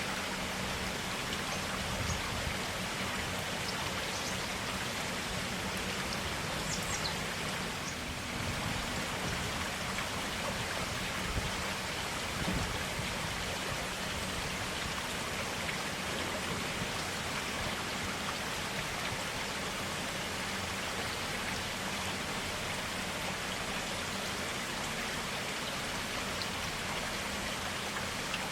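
Forest stream flowing steadily, a constant even rush of running water.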